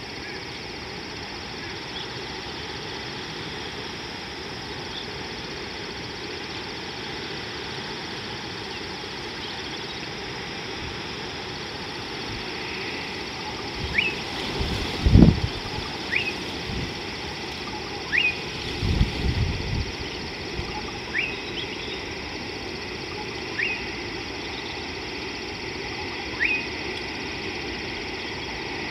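A bird calls repeatedly in the second half, a short upward-sweeping call about every two seconds, six times, over a steady background hiss. Two brief low rumbles come about midway.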